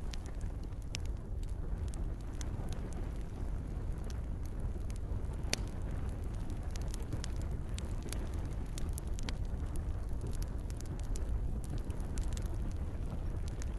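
Campfire burning with frequent sharp crackles and pops over a steady low rumble of flames, with a soft hiss of rain.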